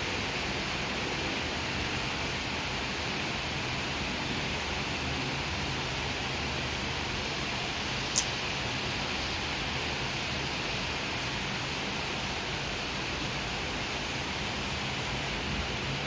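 Steady rain falling, an even hiss with a faint low hum beneath it and one brief sharp tick about halfway through.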